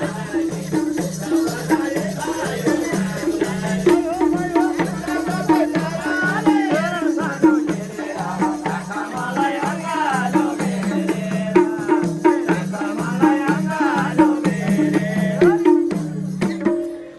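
Nepali folk dohori music: a quick, even beat alternating between two low notes under a wavering melody, with rattling percussion. It stops just before the end.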